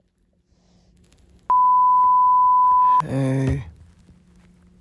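Telephone call tone: a steady high beep about a second and a half long starts a little over a second in, followed at once by a short low buzzy tone. The call is waiting to be answered.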